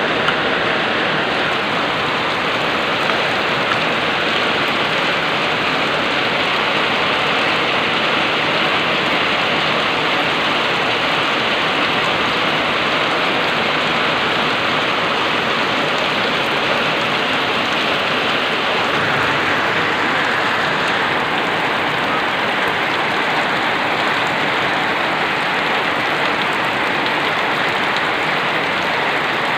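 Heavy rain pouring steadily onto a wet road, an even, unbroken hiss.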